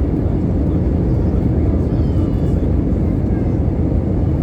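Loud, steady rumble of an Airbus A320-214 heard from inside the passenger cabin: the CFM56 engines and the airflow, holding an even level throughout.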